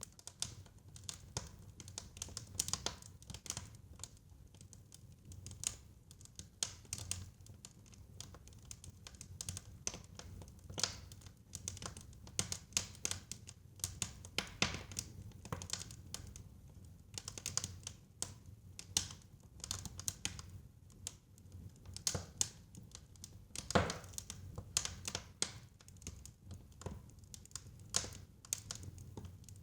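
Fire crackling in a fireplace: irregular sharp pops and snaps over a low, steady rumble of the flames, with one louder snap about two-thirds of the way through.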